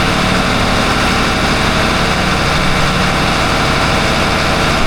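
Yacht's Volvo marine diesel engines running steadily, loud and even, with no grinding from the supercharger belt drive now that it has been fixed.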